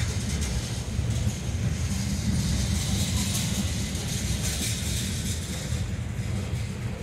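Covered hopper cars of a long freight train rolling past: a steady low rumble of steel wheels on rail, with a brighter hiss swelling in the middle.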